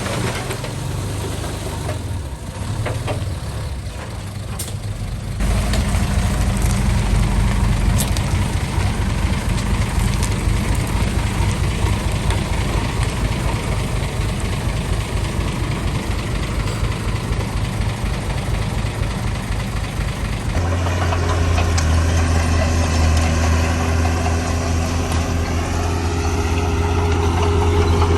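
Heavy diesel engines of earthmoving machinery running steadily. The engine note gets louder and deeper about five seconds in, and near the end of the first twenty seconds a steadier, deeper hum takes over.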